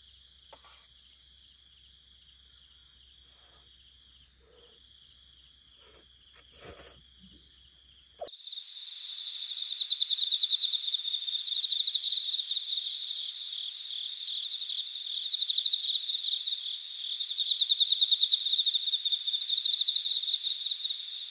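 Chorus of insects trilling high and steady, with a few faint ticks at first. About eight seconds in it abruptly becomes much louder, and a pulsing trill swells and fades every two to three seconds over a steady shrill tone.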